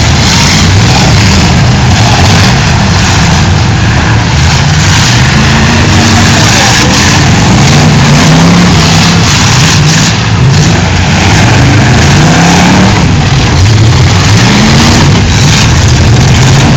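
Demolition derby cars' engines revving hard, their pitch rising and falling again and again, under a loud, steady wash of noise.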